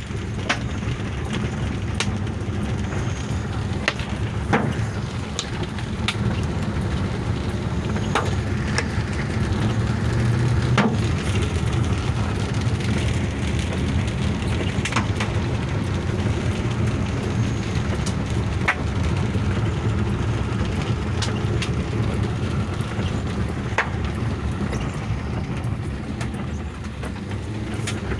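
Hailstones striking a moving car in scattered sharp knocks, a few each second, over the steady low rumble of the car driving.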